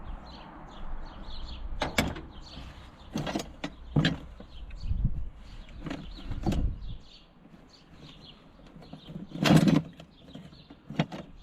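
Old garden tractor parts knocking and clanking as they are rummaged out of a box: a handful of separate knocks, the loudest about nine and a half seconds in.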